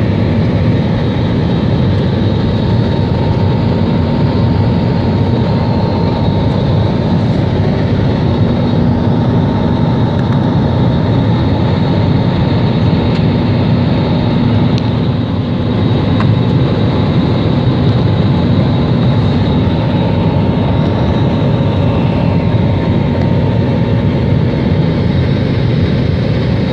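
Airplane taking off: a loud, steady rumble of engines and rushing air at takeoff power, with a faint steady whine above it.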